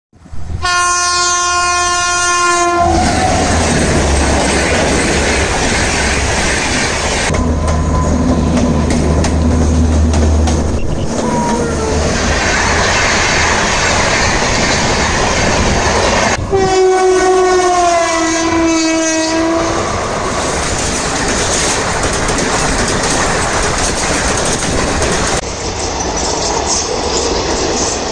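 Indian Railways electric locomotive's horn sounding for about two seconds, then an express train running past at speed with a steady rumble and the clickety-clack of wheels over rail joints. About 16 seconds in, a second long horn blast falls in pitch as the locomotive passes.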